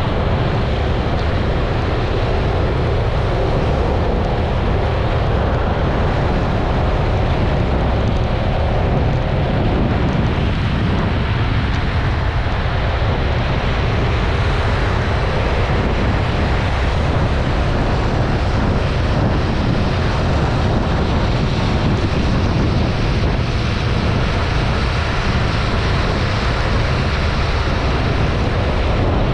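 Steady wind rush over an action camera's microphone while riding a Yamaha XMAX 300 scooter, with the scooter's single-cylinder engine and tyre noise running underneath at a constant speed.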